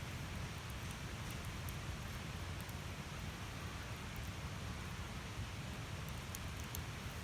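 Steady hissing noise with a low rumble and a few faint sharp crackles about six seconds in, from an outdoor wood fire used for cooking.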